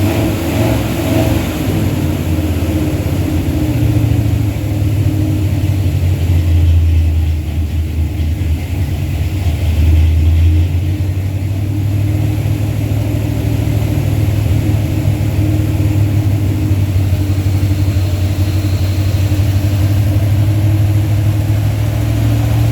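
Carburetted Mopar 360 LA V8 running at a raised idle, swelling briefly in speed twice, about seven and ten seconds in, then holding steady. The owner suspects a vacuum leak, such as an intake manifold leak, behind its poor running.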